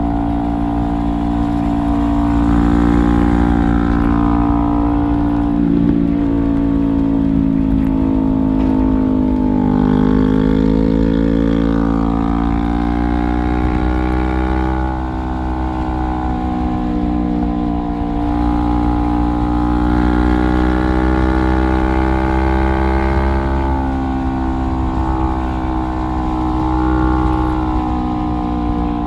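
2017 Honda CBR500R parallel-twin engine running through a straight-pipe exhaust while riding. Its note rises and falls gently as the throttle is rolled on and off, easing off about ten seconds in and again near the end, over a steady low rumble.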